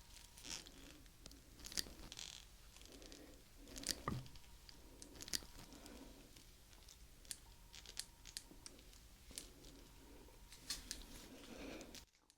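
Nipper pliers clicking and snipping close to the microphone: irregular, sharp, crisp clicks spaced a second or two apart, with soft handling rustle between them.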